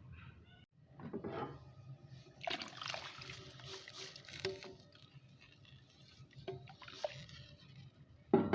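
Liquid pouring for about two seconds, among a few short knocks and a louder sharp sound near the end.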